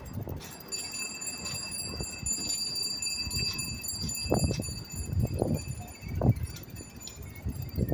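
Wind buffeting the microphone during a bicycle ride, in uneven low gusts that are stronger about halfway through and again near the end, over a few thin, steady high tones.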